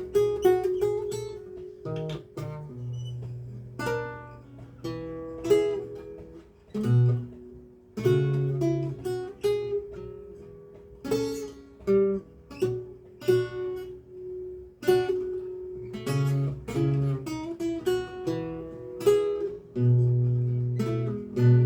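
Lute playing a recercar: plucked notes in more than one voice, with low bass notes ringing under a higher melody line.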